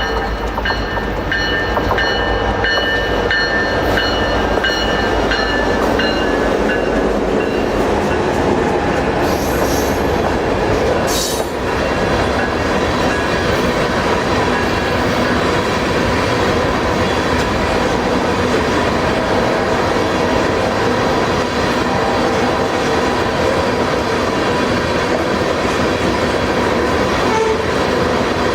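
A crude oil freight train rolling past. Locomotive tones and low engine rumble fade over the first several seconds, giving way to the steady loud rumble and clatter of the tank cars' wheels on the rails, with a sharp metallic clank about eleven seconds in.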